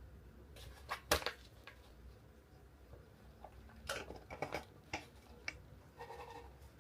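Bearded dragon biting and chewing vegetables: scattered small crunches and clicks, the sharpest a little after a second in and a cluster around four to five seconds in.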